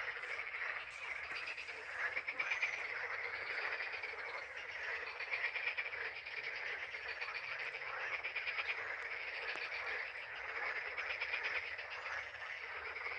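A dense chorus of frogs calling, many rapid pulsed croaks overlapping without a break.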